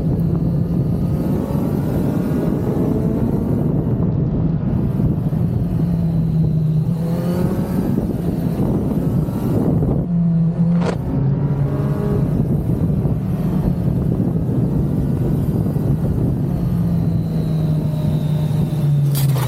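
Kawasaki Z900's inline-four engine running under way, a steady drone whose pitch steps up and down with throttle and gear changes. There is a sharp click about eleven seconds in.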